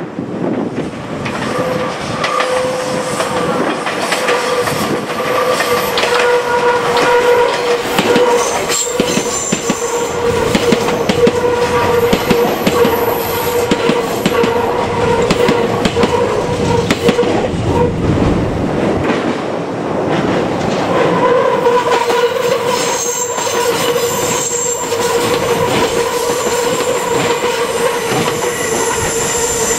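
Meitetsu electric train running past, its wheels clattering over the rail joints with a steady squeal from the wheels on the curve.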